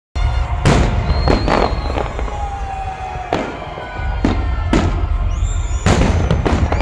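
Fireworks display: aerial shells bursting in about ten sharp bangs, coming in uneven clusters over a steady low rumble.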